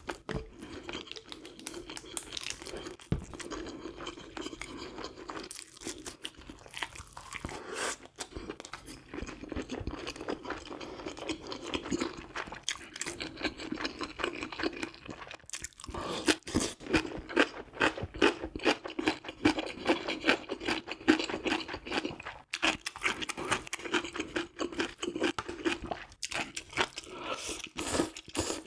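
A person chewing and crunching food in close-up, with dense runs of quick mouth clicks that grow busier in the second half.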